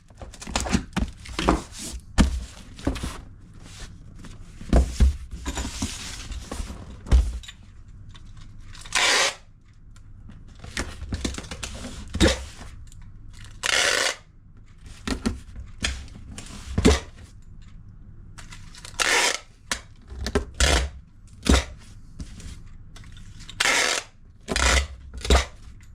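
Packing a cardboard parcel: repeated knocks and thuds from the box being handled, with a short rasping strip about every five seconds, typical of packing tape being pulled and pressed on.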